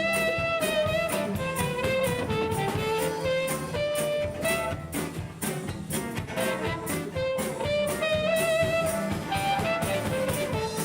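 A live band playing an instrumental break: a reedy wind-instrument lead melody of short, moving notes over a drum kit keeping a steady beat and a bass line.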